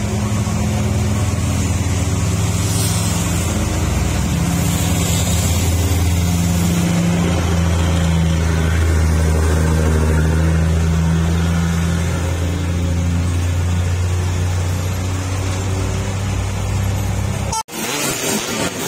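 Engine of a heavily loaded truck running with a low, steady drone. It cuts off abruptly near the end, giving way to a noisier, different sound.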